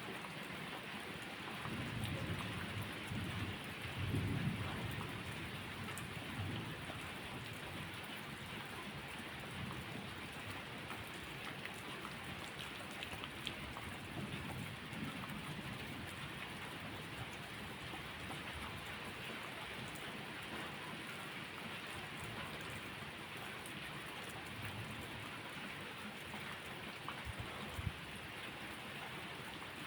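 Steady rain falling, with thunder: low rumbles swell about two and four seconds in, and fainter ones follow later.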